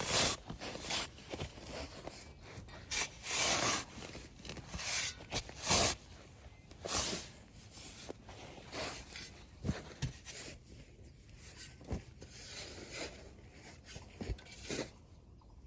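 Irregular scraping and rubbing strokes, some short and some drawn out for about half a second, with a few sharp low knocks among them.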